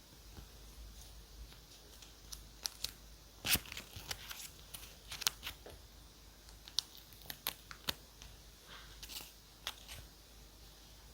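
Paper and stationery handled on a desk: scattered sharp clicks and taps with brief paper rustling, the loudest a click about three and a half seconds in.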